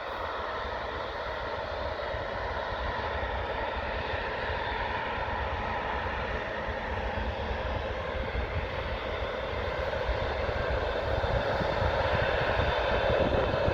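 Jet airliner engines running: a steady rumble with a faint droning hum, growing gradually louder.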